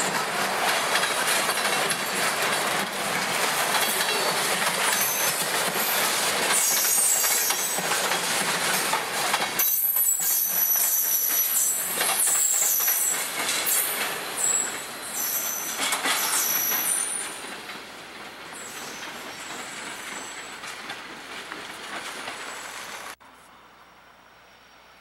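Freight train cars rolling past close by, wheels clattering over the rails, with high-pitched wheel squeals through the middle of the passage. The noise eases in the second half and drops off suddenly near the end to a quiet background.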